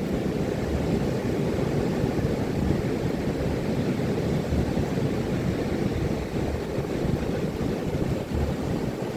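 Ocean surf breaking on a beach: a steady, low roar of waves.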